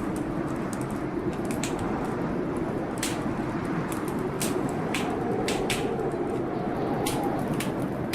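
Wood fire crackling in a fireplace, with sharp pops at irregular moments, about ten in all, over a steady low rush of storm noise.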